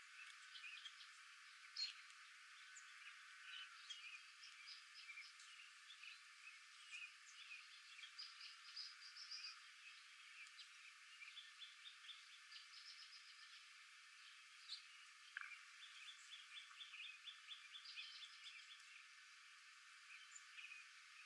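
Faint chorus of wild songbirds, with many short chirps and high trills overlapping, including a few rapid trills.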